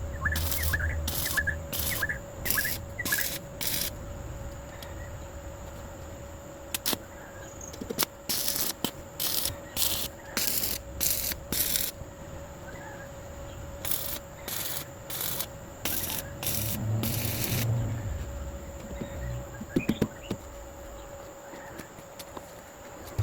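Runs of short rasping strokes, about two a second, with pauses between the runs, over a steady insect drone.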